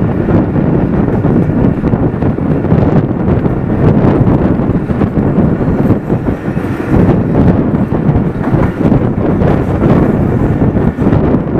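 Passenger express train running past close by at speed, its wheels clattering steadily over the rails, with wind buffeting the microphone.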